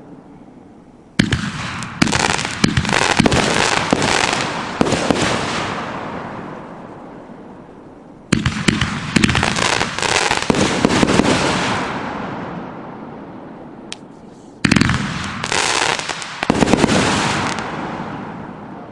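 Smoking Alien "Sensei" 500-gram, 20-shot firework cake firing in three volleys. Each volley starts with a sharp bang, followed by a few seconds of rapid bangs and crackle that fade away.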